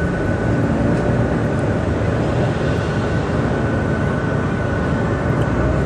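Steady engine and road rumble inside a moving tour bus, with a thin steady high whine running through it.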